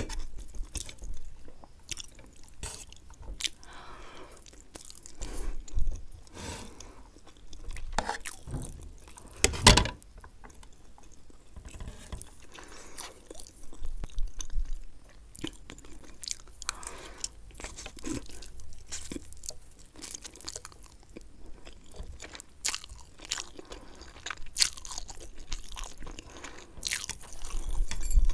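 Close-miked eating sounds of Maggi instant noodles: wet chewing with irregular sharp clicks and smacks, the loudest about ten seconds in.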